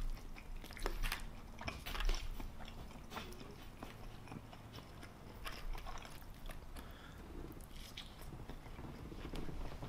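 A person chewing a mouthful of mac and cheese close to the microphone, with soft, irregular wet mouth smacks and clicks.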